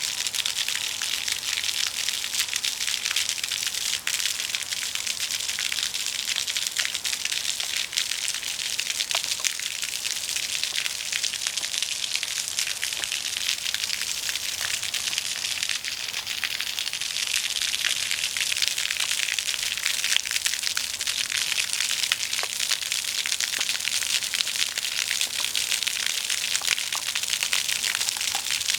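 Steady rush of floodwater, an even hiss dotted with small crackles and splashes.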